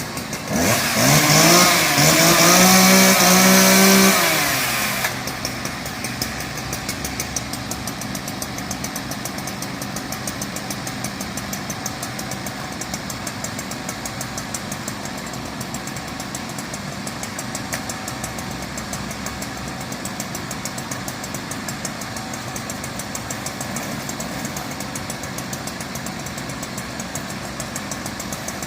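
An engine idling steadily with an even, rapid beat. In the first few seconds a louder sound rises in pitch and holds briefly before dropping away.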